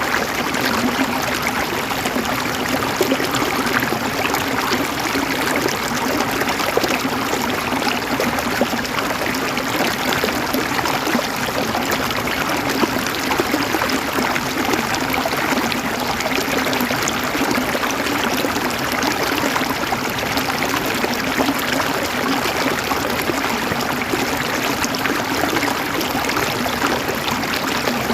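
River water running and gurgling steadily over a streambed, a dense, even rush without pauses.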